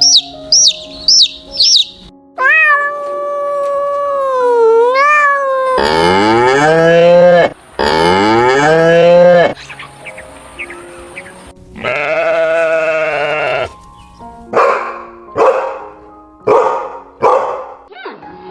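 A run of farm animal calls over soft background music. A few quick chirps open it, then several long drawn-out calls that rise and fall in pitch, the loudest in the middle, and about five short calls near the end.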